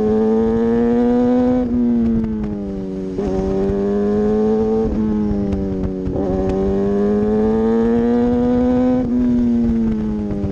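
Motorcycle engine heard from on board, running at fairly steady revs; its pitch creeps up and then drops sharply about five times. Wind rush on the microphone underneath.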